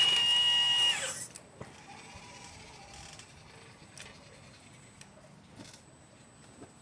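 The small electric drive of a 1/12-scale RC Liebherr 954 excavator model whines at a high, steady pitch and cuts off about a second in. A few faint clicks and a faint high hum follow.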